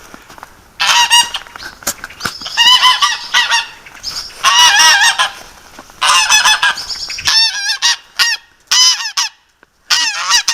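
Geese honking loudly, a run of repeated harsh calls that starts about a second in and goes on throughout.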